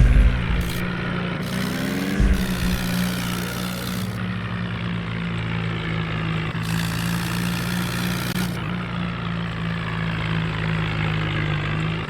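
Swaraj tractor's diesel engine running steadily, with a low thump at the start and another about two seconds in.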